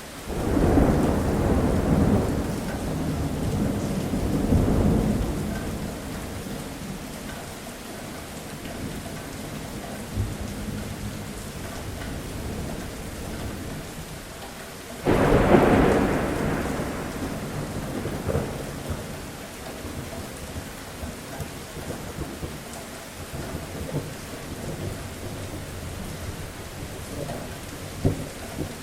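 Steady rain with two peals of thunder. The first rolls in right at the start and rumbles for about six seconds. The second breaks suddenly about halfway through and rumbles away over a few seconds.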